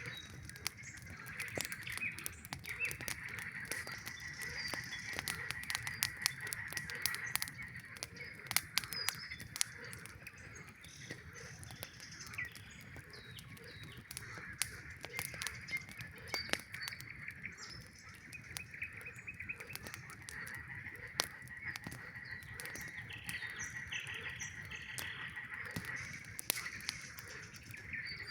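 A chorus of frogs calling, a steady high trilling that swells and fades, with a campfire crackling and popping throughout.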